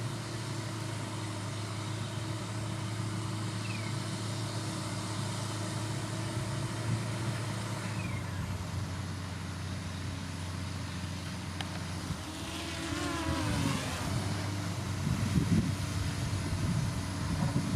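Diesel engine of heavy road-building machinery running steadily, with a brief dip and rise in pitch about two-thirds of the way through and rougher low rumbling near the end.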